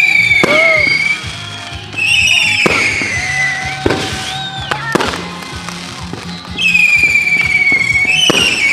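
Fireworks going off: four long whistling tones that slowly fall in pitch, the first near the start and the last two in the final couple of seconds, with sharp bangs and crackles between them.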